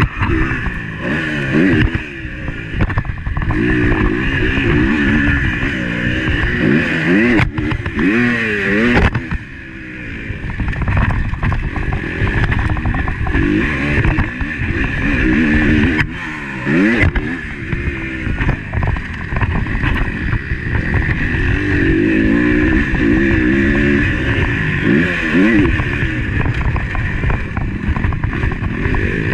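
Motocross motorcycle engine heard from on the bike, revving up and dropping off again and again as the rider works the throttle, its pitch climbing and falling in quick sweeps. The engine note eases off briefly about ten seconds in, then picks up again.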